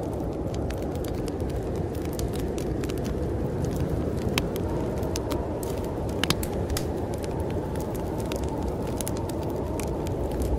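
Wood fire crackling in a fireplace, with irregular sharp pops and snaps, over a steady low rush of snowstorm wind.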